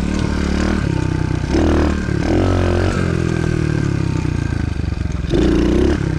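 110cc pit bike engine running under throttle while being ridden, its pitch rising and falling as it revs up hard, about a second and a half in and again near the end.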